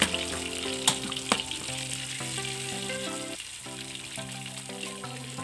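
Spice paste sizzling in hot oil in an aluminium wok as a metal spatula breaks it up and stirs it, with two sharp clicks of the spatula on the pan about a second in. Soft background music with held notes plays underneath.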